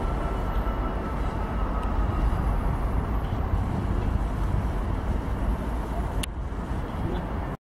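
Class 158 diesel multiple unit pulling away into the distance, a steady low rumble. There is a sharp click about six seconds in, and the sound cuts off abruptly just before the end.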